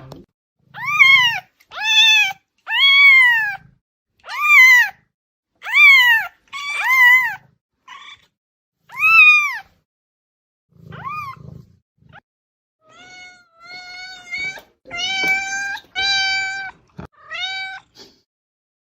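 Domestic cat meowing over and over, about a dozen meows with a pause around the middle; the first ones rise and fall in pitch, and the later ones are flatter and held longer.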